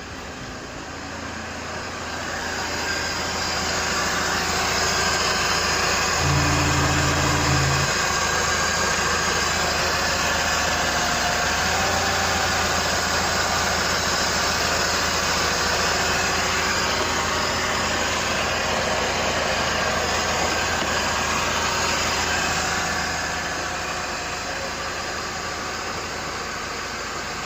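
Mercedes M111 2.0-litre four-cylinder petrol engine running steadily, getting louder a few seconds in and quieter again near the end.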